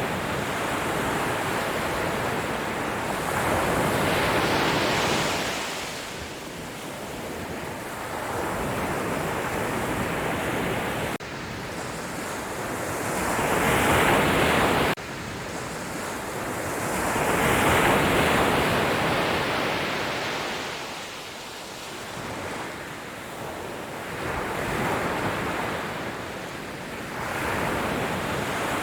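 Sea waves washing onto the shore, each surge swelling and fading over several seconds, the biggest about 4, 14 and 18 seconds in. The level drops off abruptly twice, about 11 and 15 seconds in.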